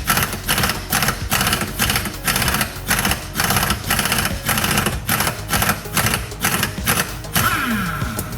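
Impact driver hammering in a rapid rattling stream on a rusted sway bar bushing bracket bolt. It lets off about 7 seconds in and winds down with a falling whine.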